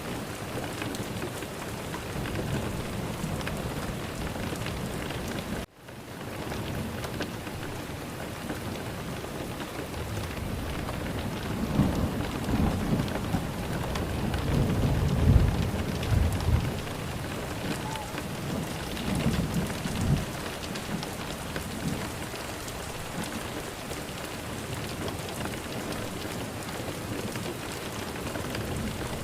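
Steady heavy rain with thunder rumbling low through the middle, one long rolling swell and a shorter one after it. The rain cuts out for an instant about six seconds in.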